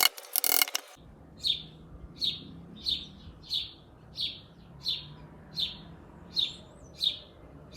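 A bird calling over and over, short high chirps about one and a half times a second. In the first second a few loud bursts of woodworking tool noise come before the calls.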